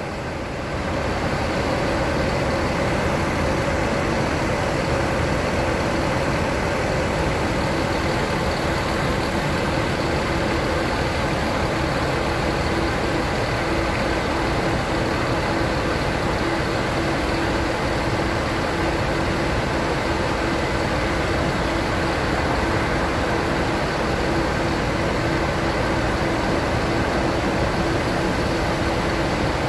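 Aircraft cabin noise: the steady roar of the engines and rushing air, with a few steady hums in it.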